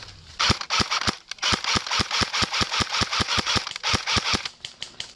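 SPARTAC AK47M Tactical airsoft electric rifle firing a long string of shots, about six or seven a second, each a sharp thump with a hiss, with brief breaks near one second and near four seconds in.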